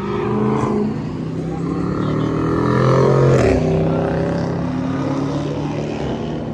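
A car engine revving hard, its pitch climbing for a couple of seconds and then dropping off sharply about three and a half seconds in, after which the engine runs on more steadily.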